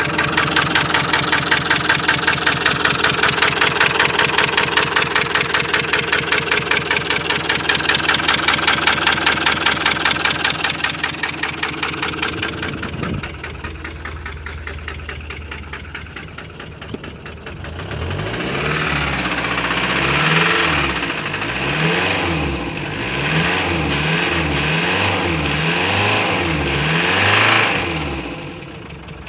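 Ford Transit 2.4-litre diesel engine knocking and misfiring, running unevenly on three cylinders. It runs fast and rough with a hard pulsing beat for about twelve seconds, drops back, then from about eighteen seconds in it is revved up and let fall back several times.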